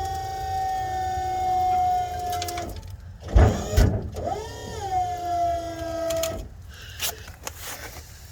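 Tow truck wheel-lift hydraulic pump motor whining under heavy load, its pitch slowly sagging as it strains to power the stuck unit down. It stops a little under three seconds in, two loud knocks follow, then it whines again, rising and sagging, before a few sharp clicks near the end.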